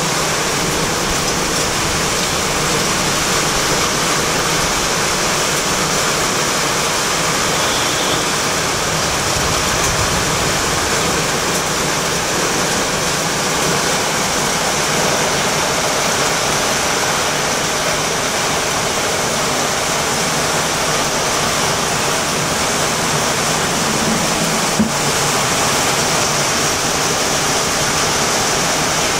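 Torrential rain pouring down in a steady, dense hiss. A single sharp click near the end.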